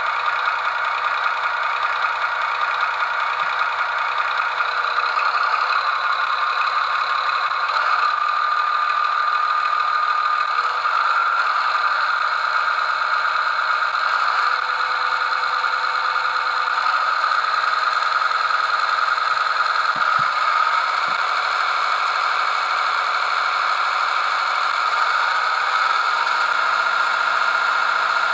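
The digital sound decoder of a Mehano H0-scale BLS Am 843 diesel locomotive model plays a steady diesel engine running sound through its small built-in speaker, thin and with no deep bass. The engine note rises a little about a third of the way through.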